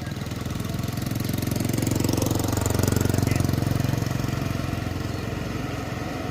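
A small engine running, growing louder to a peak about three seconds in and then fading, as it passes by.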